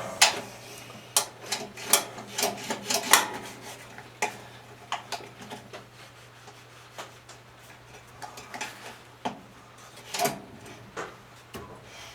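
Loose flail blades inside an MTD chipper shredder's housing rattling and clinking as the rotor is turned over, a string of irregular metallic clicks that is busiest in the first three seconds and then thins out.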